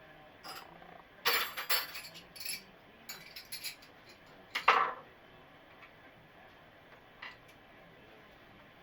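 A run of sharp clinks and knocks of hard objects, like hand tools handled against metal and porcelain, loudest about four and a half seconds in, with one faint click later.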